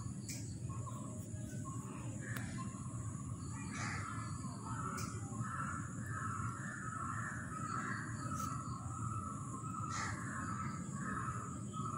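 Repeated bird calls, starting about four seconds in, over a steady low background rumble.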